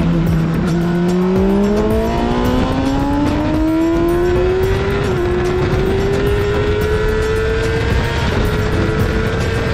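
Honda CBR600RR inline-four sportbike engine pulling under throttle, its note dipping low at first and then climbing steadily, with a slight dip about five seconds in, over heavy wind rush.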